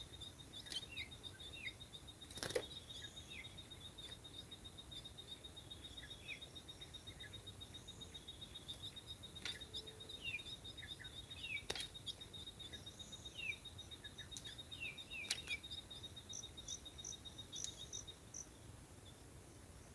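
Faint short, downward-sliding bird chirps repeated every second or so, over a steady rapid high insect trill that stops near the end, with a few sharp clicks.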